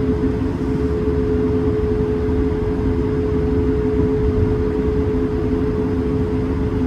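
Airbus A220-300 cabin noise heard from a window seat: the Pratt & Whitney geared turbofan engines run steadily, giving two constant hums over a low rumble and airflow hiss.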